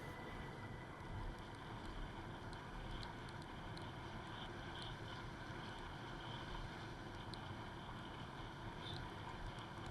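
Faint, steady rushing noise with a low rumble and scattered light ticks.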